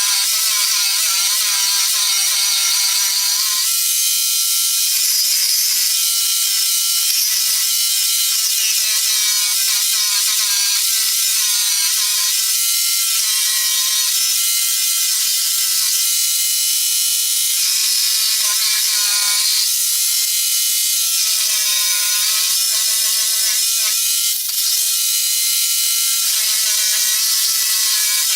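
Electric jigsaw running and cutting a curved shape. Its motor whine repeatedly dips in pitch and recovers as the blade takes and sheds load along the curve.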